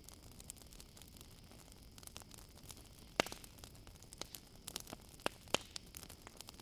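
Campfire crackling: irregular sharp pops and snaps over a soft hiss, with one strong pop about halfway through and two more close together near the end. A faint, steady high chirring of crickets runs behind it.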